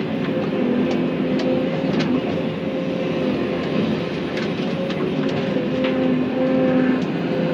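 Excavator's diesel engine running under load, with a whine from the hydraulics whose pitch steps up and down as the machine works. A few short sharp cracks or knocks are heard, from the bucket working wood and roots.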